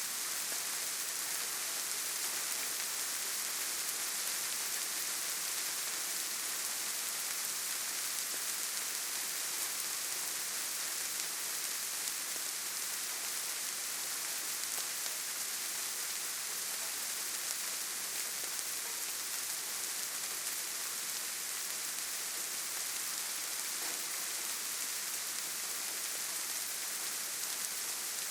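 Steady light rain pattering on leaves, grass and ground: a soft, even hiss of many small drops with no thunder or other sounds.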